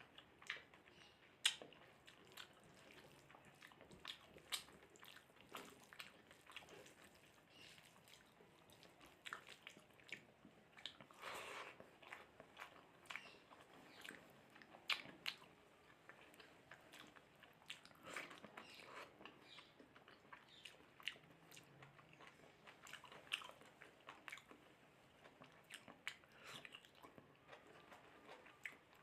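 Close chewing and wet mouth sounds of someone eating mutton rogan josh with rice and gravy: irregular smacks and clicks, with a few louder bites.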